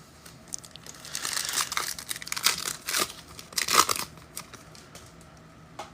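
Crinkling and tearing of a trading-card pack's wrapper being ripped open by hand, in irregular rustles for a few seconds.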